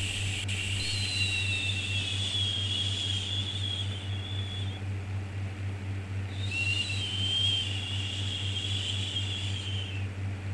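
Human 'shhh' shushing for soothing a baby, two long drawn-out shushes of about four seconds each with a short pause between, over a steady low hum.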